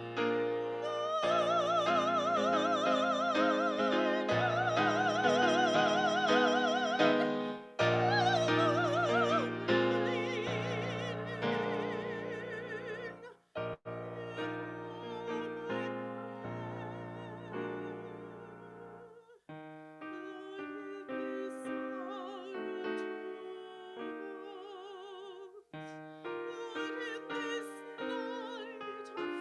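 Classical-style solo singing with wide vibrato, holding long notes over piano accompaniment, at the close of a sung prayer. About two-thirds of the way through the low piano notes drop out and the music goes quieter, with higher, softer vocal and piano notes continuing.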